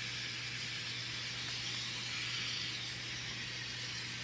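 N scale model train running along the layout track at speed: a steady whirring hiss with a low hum underneath.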